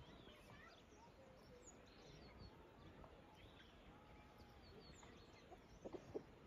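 Quiet outdoor ambience with faint, scattered bird chirps and short whistles. Near the end come a couple of brief, soft, slightly louder sounds.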